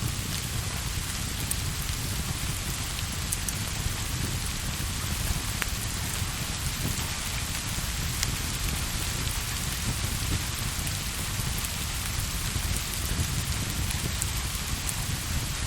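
Steady rain falling on a surface, an even hiss with a few faint sharp ticks scattered through it.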